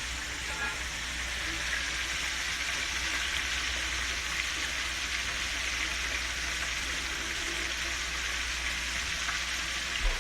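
Whole trout in a rice flour and cornstarch coating deep-frying in hot canola oil: a steady sizzle.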